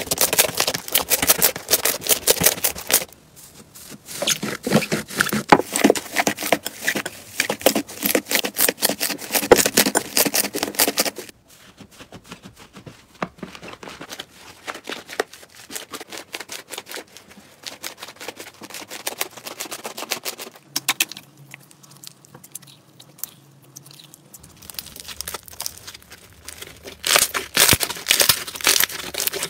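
Slime being squeezed, poked and stretched by hand, giving dense crackling, popping and crinkling. It is loud for the first ten seconds or so and again near the end, quieter and sparser in between, and it changes abruptly several times.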